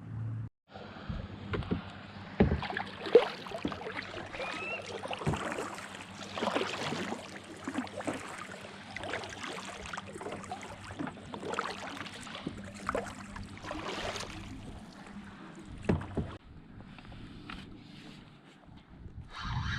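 Water splashing and sloshing around a kayak, with irregular knocks and splashes every second or so. A faint steady low hum runs underneath.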